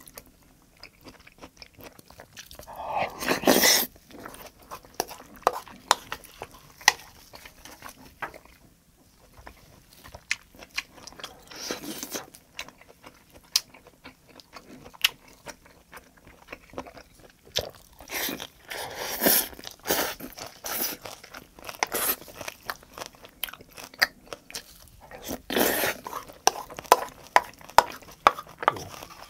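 A person eating green onion kimchi and spaghetti, chewing and biting close to a clip-on microphone. Wet mouth sounds come with frequent small clicks, and there are several louder bursts of eating noise.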